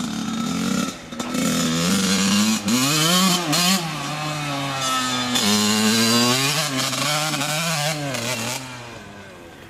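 Dirt bike engine revving up and down as it is ridden, the pitch rising and falling repeatedly, then dropping quieter near the end.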